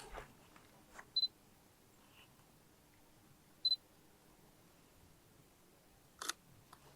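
Sony FX3 camera giving its autofocus-confirmation beep: a short high double beep, twice, about two and a half seconds apart. A few soft clicks come between and after.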